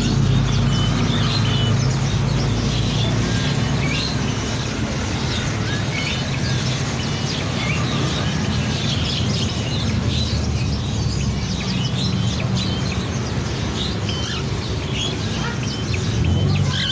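Songbirds chirping and twittering: many short, quick, high calls, over a steady low hum.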